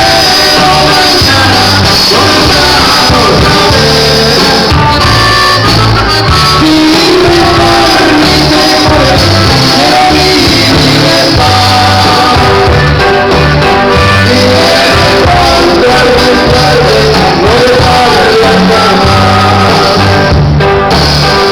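Norteño music, loud and continuous: a singer over a band with a steady, pulsing bass line.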